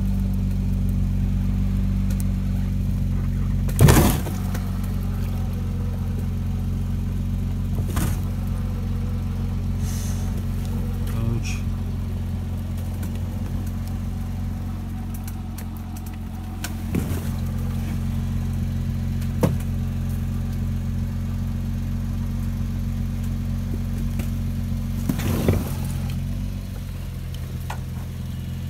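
Truck engine and winch running steadily during a winch recovery, a low even drone whose upper part drops away near the end. Several sharp knocks come over it, the loudest about four seconds in.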